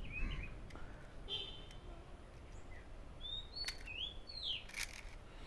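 Small birds chirping in short, curving calls. Near the end come two light clicks about a second apart: the Kodak Retina IIS leaf shutter opening and closing on a 1-second exposure.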